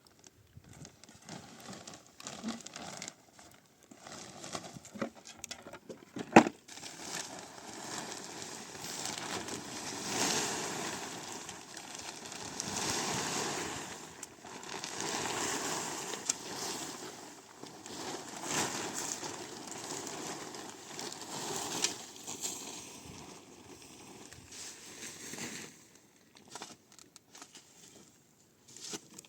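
Rustling and crackling handling noise that swells and fades, with one sharp knock about six seconds in.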